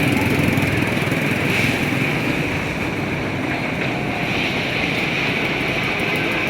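Steady road-traffic noise with engines running, with no single event standing out.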